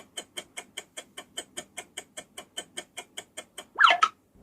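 Steady clock-like ticking sound effect, about five ticks a second, counting down the thinking time for a riddle. Near the end two short, louder rising sounds cut in.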